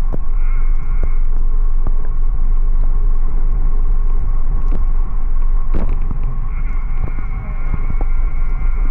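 Wind buffeting the microphone while riding, a steady heavy low rumble mixed with road noise. A faint high whine joins about two-thirds of the way in.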